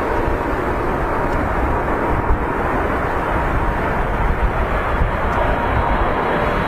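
Jet engines of a Boeing 747 on its landing approach, a steady rumbling rush with a faint high whine running through it.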